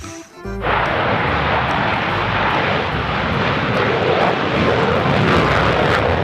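A loud, steady rushing noise that starts suddenly about half a second in, like a jet engine or a strong blast of air.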